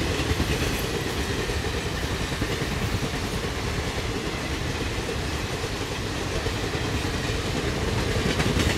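Indian Railways passenger express train running past, a steady rumble of coaches and wheels on the rails that grows louder near the end.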